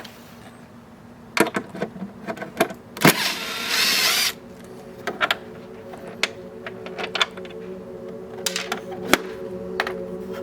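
Clicks and knocks of tools and bolts being handled while the mower's housing bolts are taken out, with a harsh noise about a second long about three seconds in. Background music with steady tones comes in about halfway.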